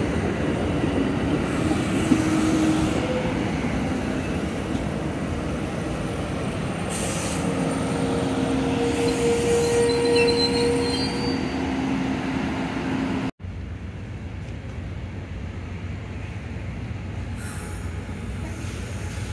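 A train running past on the rails, its steel wheels squealing in a few steady whining tones over the rolling noise. The sound cuts off suddenly about 13 seconds in and gives way to a quieter, steady low rumble.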